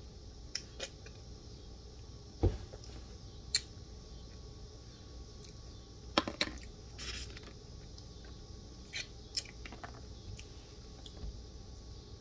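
Quiet chewing of raw ripe bitter gourd (ampalaya), with scattered small mouth clicks and smacks, a soft knock about two and a half seconds in and a brief hiss around the middle.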